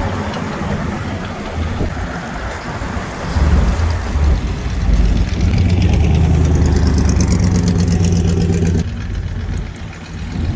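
Classic car engine running at low speed, a deep steady note that grows louder about three seconds in and drops away sharply near the end.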